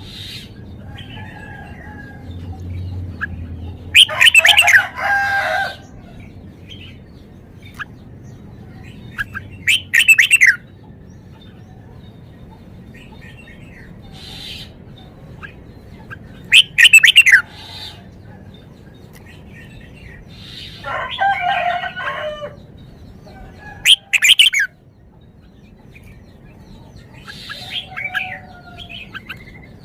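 Red-whiskered bulbul singing short, loud, quick whistled phrases, about six of them, each a second or so long and spaced a few seconds apart, over a low steady background hum.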